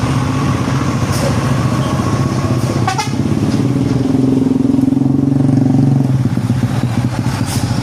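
Heavy truck diesel engines running in passing traffic on a busy road, with the engine note swelling between about four and six seconds in. A brief high chirp sounds about three seconds in.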